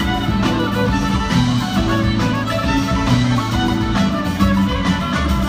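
Live band music in an amplified concert: fiddle over guitar, bass and drums, playing a steady groove.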